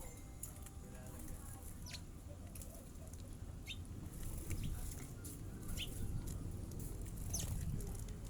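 A small pet bird giving short, high chirps that slide downward in pitch, four of them a second or two apart, over a low background rumble.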